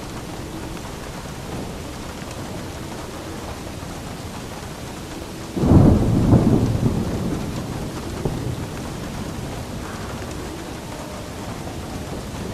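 Steady rain with a clap of thunder a little under halfway through: a sudden loud crack that rolls into a rumble and fades over a few seconds while the rain keeps falling.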